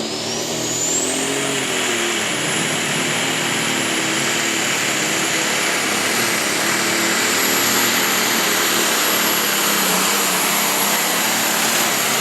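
Pulling tractor's engine at full power during a pull, loud and sustained. A high whine climbs in pitch over the first couple of seconds, then holds steady.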